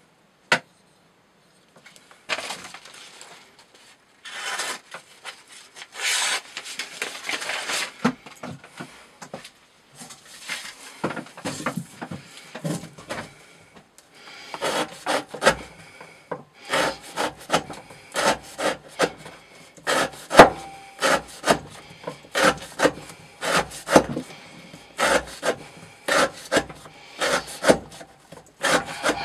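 Knife blade slicing through rope again and again in a cutting test for edge wear resistance. The strokes are scattered at first; in the second half they come quickly, about two short scraping cuts a second.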